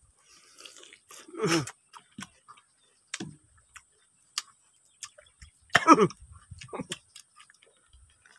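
People chewing and biting into barbecued pork ribs: scattered wet mouth clicks and smacks, with two short voiced sounds that fall in pitch, about a second and a half in and again near six seconds.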